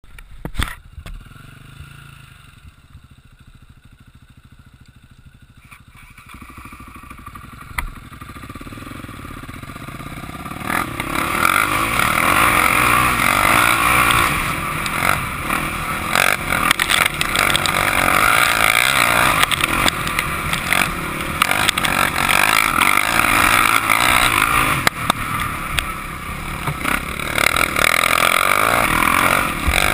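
Motocross bike engine ticking over quietly, then building up as the bike pulls away; from about ten seconds in it is loud and continuous, revving up and down as the bike rides the track.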